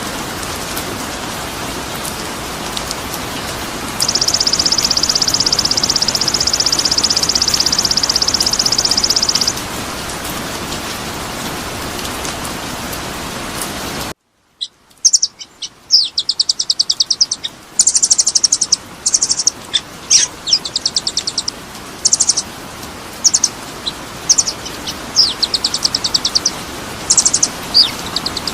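A steady rain-like hiss with a buzzy high trill held for about five seconds, starting about four seconds in. After a brief cut to silence, a songbird sings loud, rapid, high trills and chirps in short repeated phrases.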